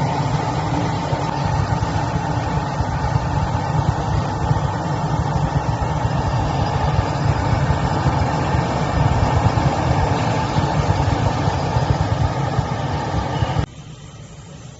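Machinery running with a steady, loud rumble, dropping abruptly to a much quieter level about a second before the end.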